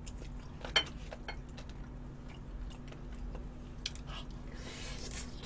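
Close-miked chewing and soft mouth noises of a person eating, with scattered small clicks, one sharper about three-quarters of a second in.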